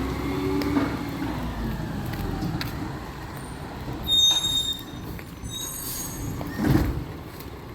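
Recycling truck running, with a loud high-pitched squeal about four seconds in, typical of air brakes, and a second short loud burst near the end.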